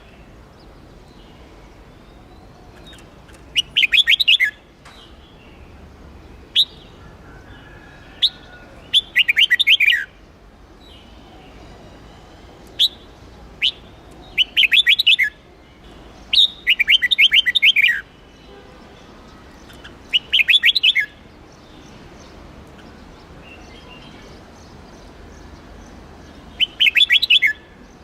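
Red-whiskered bulbul singing: six short, fast phrases of about a second each, a few seconds apart, with single sharp chirps in between.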